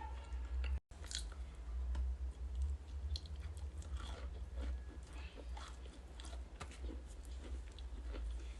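Close-miked crunching and chewing of ice, with many small crackling bites and grinding chews over a steady low hum. The sound cuts out completely for a moment just under a second in.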